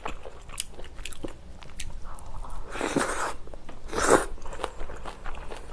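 Close-miked chewing of stir-fried pork intestines, sundae and glass noodles, a run of small wet clicks, with two louder wet slurps about three and four seconds in.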